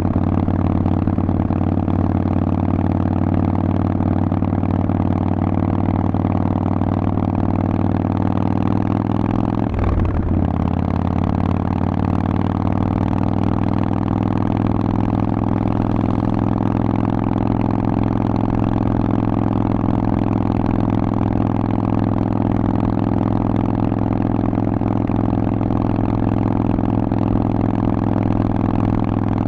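Harley-Davidson Forty-Eight's air-cooled V-twin running through a Vance & Hines exhaust at a steady speed. About ten seconds in the note breaks briefly, then its pitch climbs slowly over the next few seconds and settles.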